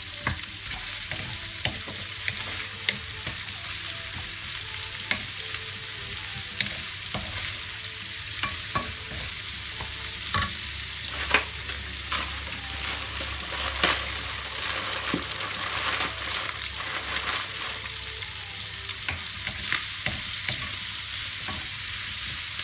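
Diced pancetta, onion, garlic and carrot sizzling in a frying pan, with a wooden spatula scraping and knocking against the pan now and then as it is stirred.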